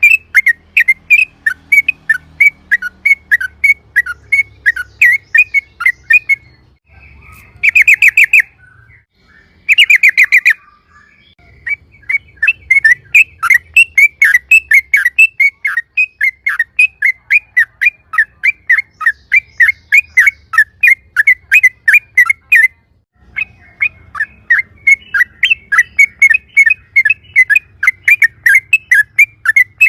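Yellow-vented bulbul (trucukan) singing a long rapid run of sharp chirps, about four or five a second. The run breaks off twice; during the first break, around eight and ten seconds in, come two short, dense, buzzy bursts.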